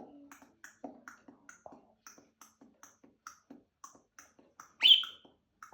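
A steady run of light clicks, about three a second, then a pet parakeet's single loud chirp rising in pitch near the end.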